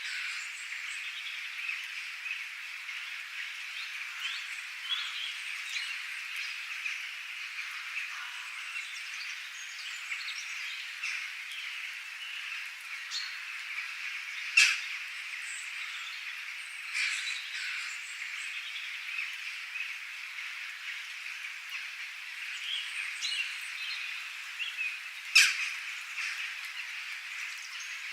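Outdoor chorus of birds: a dense, steady bed of high calling with many short chirps scattered over it. Two sharp, louder calls stand out, one about halfway through and one near the end.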